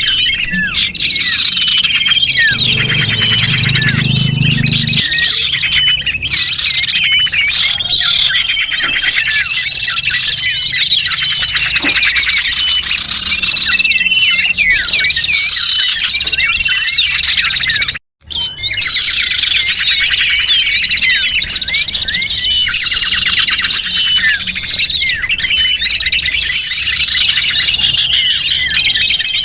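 A dense chorus of small songbirds chirping and trilling rapidly over one another, as played in a bird-lure recording. The sound breaks off for a split second about eighteen seconds in.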